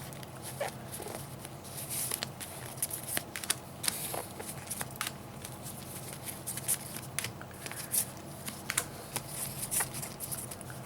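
Trading cards being handled and sorted by hand: light, irregular flicks and taps of cards against one another.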